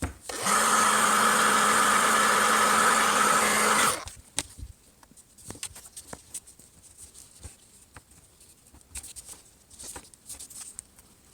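Handheld hot-air blower running steadily for about three and a half seconds with a constant hum, heating the phone's glass to soften the screen adhesive, then switched off. Faint scattered clicks and scrapes follow.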